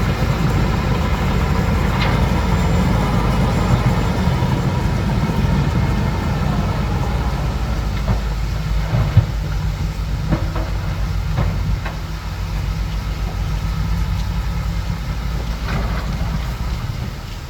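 Bulldozer's diesel engine running steadily, with a few sharp knocks near the middle and once near the end.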